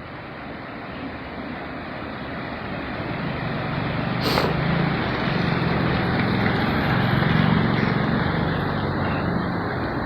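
Heavy floodwater rushing over a river check dam: a steady roar that grows louder, with a low hum underneath from about three seconds in and a brief sharp sound about four seconds in.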